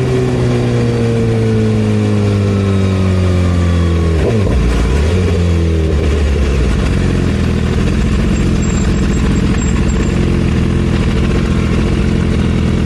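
Superbike engine slowing, its pitch falling for about four seconds. There is a sudden break in the note about four seconds in and another about two seconds later, then the engine runs at a steady pitch.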